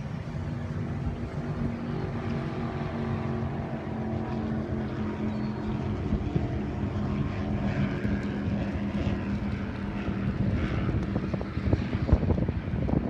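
A motor engine drones at a steady pitch. Wind buffets the microphone with low rumbling gusts near the end.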